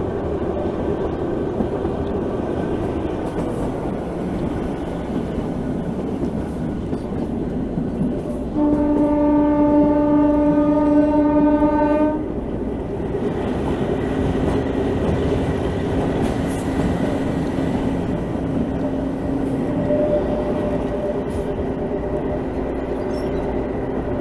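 Narrow-gauge train running, its coaches and wheels rattling along the track. About a third of the way in, the ZDM-3 diesel locomotive's horn sounds one steady blast lasting about three and a half seconds.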